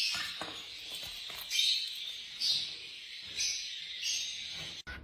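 A parrot giving harsh, raspy squawks, about one a second, four times.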